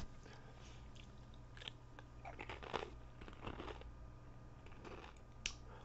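A person chewing a Pringles potato crisp: faint crunches at irregular intervals, starting about a second and a half in.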